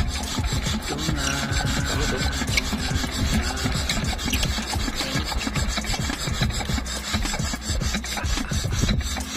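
Fast, repeated rasping strokes of something being rubbed or abraded by hand, over background music with singing.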